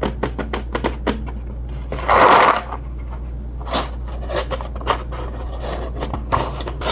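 Small plastic toy pieces being handled: a string of light clicks and taps, with a short scraping rustle about two seconds in.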